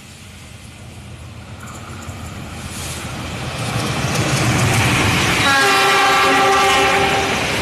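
A train approaching through a station, its running noise building steadily louder. About five and a half seconds in, the locomotive's horn sounds one steady note for about two seconds.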